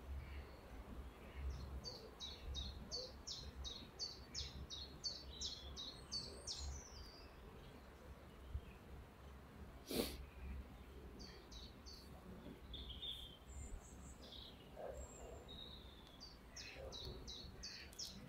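A songbird singing phrases of short, quickly repeated high notes, about three a second, one long phrase followed by two shorter ones. A single sharp click about ten seconds in, over a low steady rumble.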